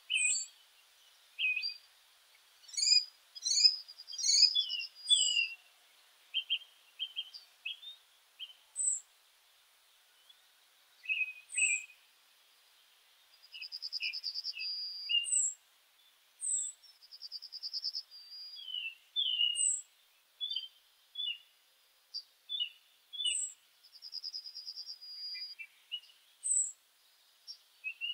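Songbirds chirping: a busy string of short chirps, with a few brief trills and thin high notes scattered through.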